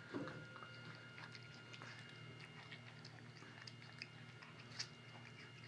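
Black-capped capuchin monkey chewing a grape: faint, irregular wet smacking clicks.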